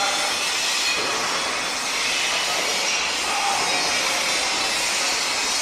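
Construction-site din: a steady, dense mechanical noise with a few faint squealing tones drifting through it.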